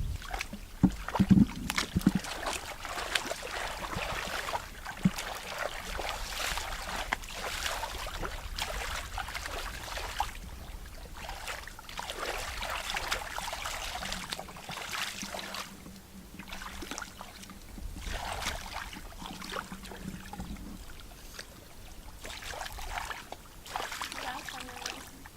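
Water splashing and sloshing in irregular surges, with a few sharp knocks in the first couple of seconds.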